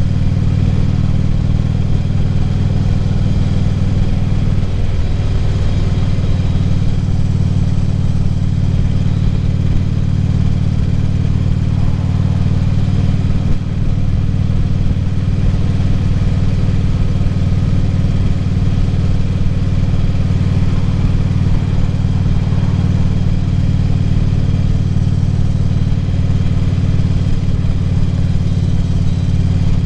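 Harley-Davidson Ultra Classic Limited V-twin engine running steadily on the road. The engine note shifts slightly about five seconds in, and the sound dips briefly about halfway through.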